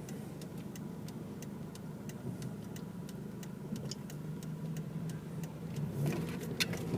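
Car engine idling with a steady low hum, with light ticks repeating through it.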